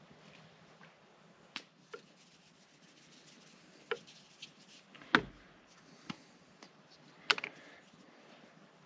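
A handful of separate knocks and clicks, as of objects being handled and set down, the loudest about five seconds in and another just past seven seconds.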